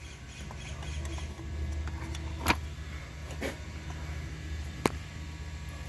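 A few sharp metallic clicks of small parts being handled over a steady low hum: three distinct clicks, about a second apart, in the middle of the stretch.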